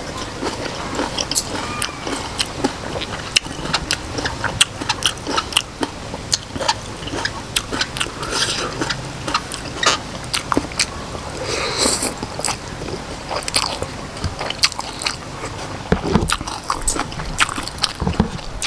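Close-up chewing and biting of octopus in chili sauce with Khmer rice noodles: an irregular run of quick wet clicks and smacks from the mouth.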